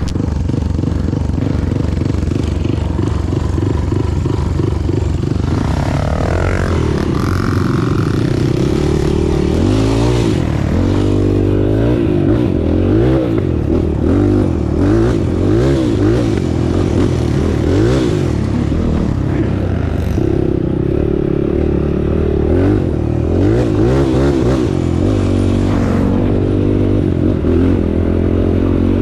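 Off-road vehicle engine running under load on a muddy track, its revs rising and falling repeatedly, with some clatter from the vehicle.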